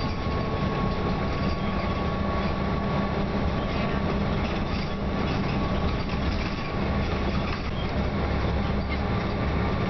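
Scania OmniCity bus running steadily, a constant low diesel rumble mixed with road and body noise, with a faint steady whine above it.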